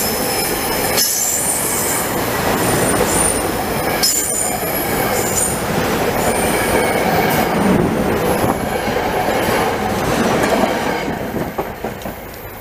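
SEPTA Silverliner IV electric multiple-unit train rolling past on the rails with a steady rumble, its wheels squealing in thin high tones that come and go. The sound falls away about eleven seconds in as the last car clears.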